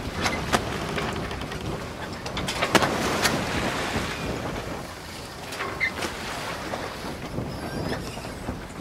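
Muddy water splashing and sloshing under wading feet, with wind buffeting the action camera's microphone. Sharper splashes come just after the start and again around three seconds in.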